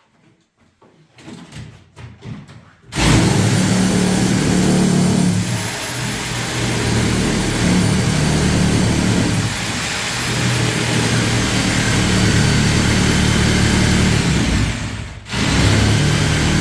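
An engine running steadily with a low hum, starting abruptly about three seconds in after a few faint knocks, with a brief drop about fifteen seconds in.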